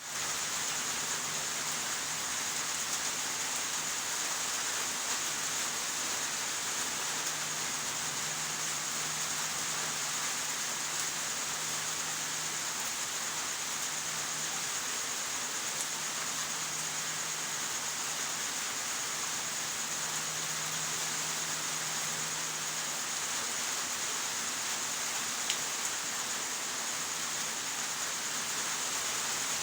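Steady rain falling, an even hiss with a faint low hum underneath for most of it.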